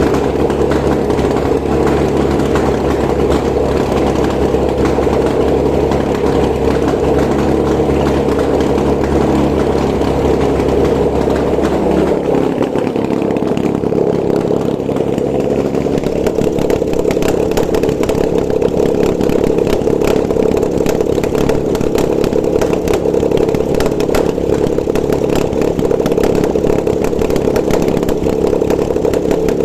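Nissan VQ20DE 2.0-litre V6 petrol engine running on a test stand at a steady idle. About twelve seconds in its note shifts and the lowest hum drops away, then it settles into a steady run again.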